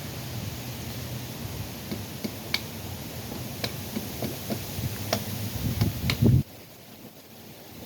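Low rumble of wind on the microphone with scattered light clicks and taps. The rumble cuts off suddenly about six and a half seconds in, and a few faint clicks go on after it.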